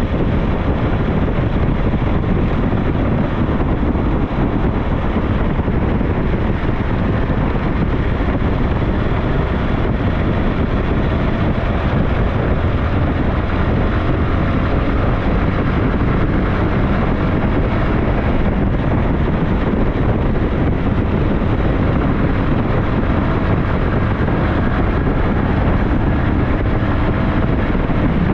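SYM NHT 200 motorcycle being ridden: loud, steady wind rush over the microphone with the engine running underneath.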